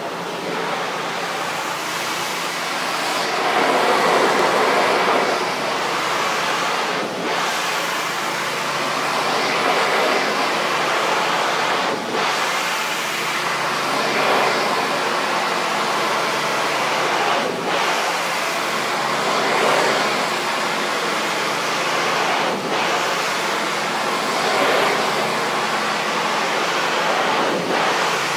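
Pressure washer spraying steadily: a continuous loud hiss of high-pressure water striking the awning, broken by a brief dip every five seconds or so.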